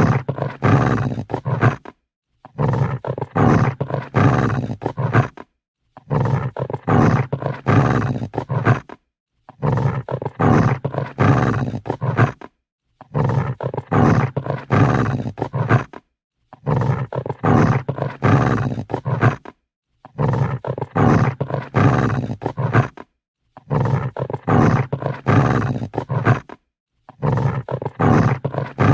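Angry dog growling: deep, rumbling growls about three seconds long, repeated over and over with a short silence between each.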